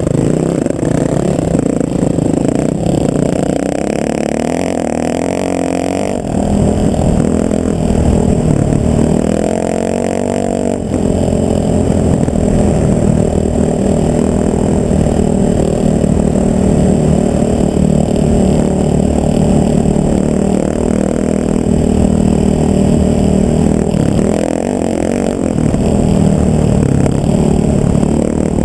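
A vehicle engine running steadily, with a low hum whose pitch shifts about six seconds in and again near eleven seconds in.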